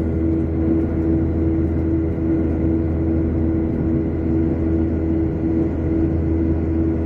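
Steady cabin noise of a Boeing 737 jet airliner in flight: an even drone from the engines and airflow, with a steady humming tone over it.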